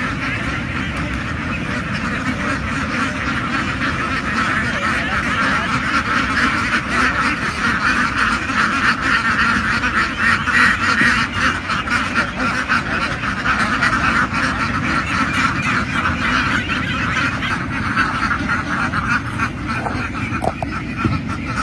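A huge flock of domestic ducks quacking all at once: a dense, unbroken chorus of many overlapping calls.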